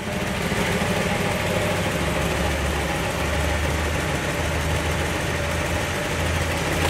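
1957 Ford Thunderbird's 292 cubic-inch Y-block V8 idling steadily.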